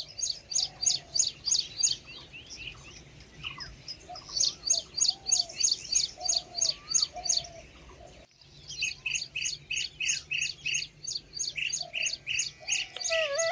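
Blue-tailed bee-eaters calling: runs of rapid, high chirps, about three a second, in three long bursts, with fainter, lower whistled notes beneath.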